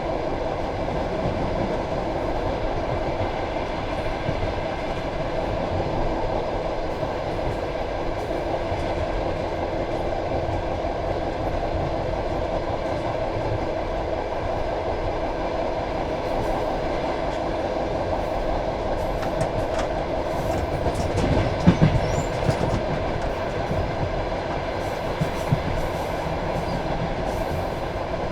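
Passenger train carriage running along the line: a steady rumble of wheels on the rails. A short cluster of louder knocks comes a little past two-thirds of the way through, and a couple more follow near the end.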